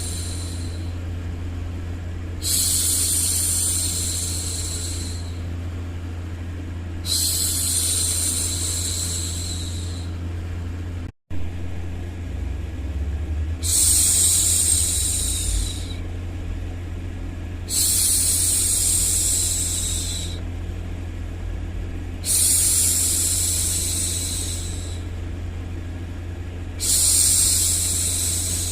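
A woman's voice shushing, a long hissy "shhh" of two to three seconds, repeated six times about every four to five seconds over a steady low hum. The sound cuts out for an instant about eleven seconds in.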